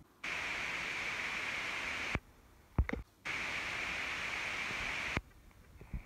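Two bursts of steady hiss, each about two seconds long, that start and stop abruptly, with a few short clicks in the gap between them.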